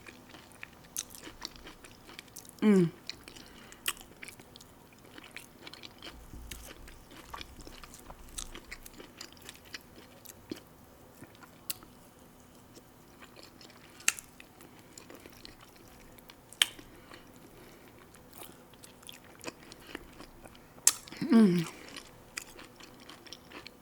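Close-up mouth sounds of a person eating corn fufu by hand: chewing with many small wet clicks and smacks. Twice, once about three seconds in and again near the end, comes a short hummed "mmm" of enjoyment that falls in pitch.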